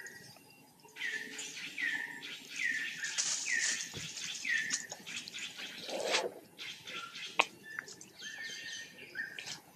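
Bird calling: a run of five short, high notes, each dropping quickly in pitch, about one every 0.7 seconds, followed by a few more chirps near the end.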